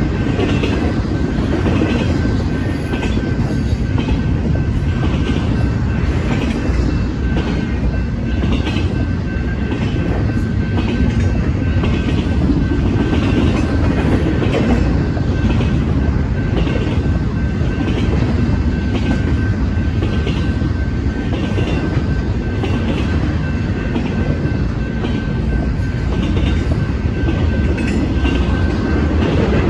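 Double-stack intermodal freight train rolling steadily over a grade crossing: continuous wheel rumble and clatter of the cars on the rails. Above it, a repeated ringing keeps time at roughly one stroke every three-quarters of a second, typical of the crossing bell sounding while the gates are down.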